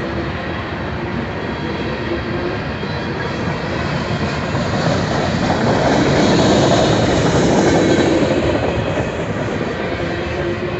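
Freight train rolling past at speed: a steady rumble and hiss of steel wheels on the rails, swelling louder in the middle and easing off toward the end.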